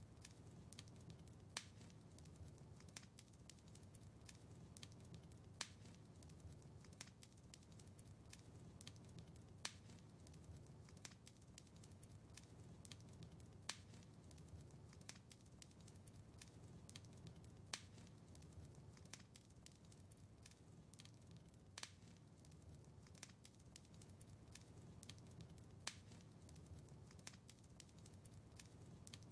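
Wood fire in a fireplace crackling softly: a constant scatter of small snaps, with a louder pop about every four seconds, over a steady low rumble.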